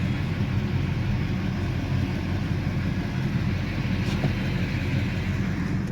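LB7 Duramax 6.6-litre V8 turbodiesel running steadily with a low, even rumble. A sharp knock comes right at the end.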